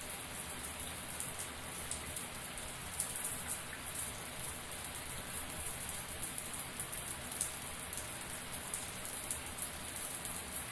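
Shower running: a steady spray of water with many small, sharp drop hits on a hard surface.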